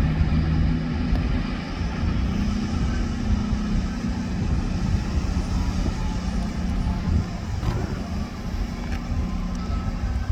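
Diesel passenger train's engine running steadily with a low rumble and a steady hum.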